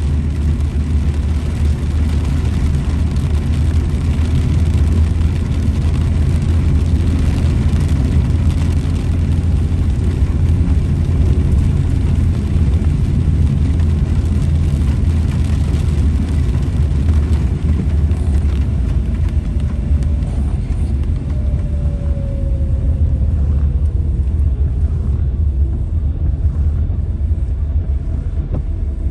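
Car driving on a wet road in heavy rain: a steady low rumble of engine and tyres with a hiss of rain and spray. A faint tone slides downward about two-thirds of the way through.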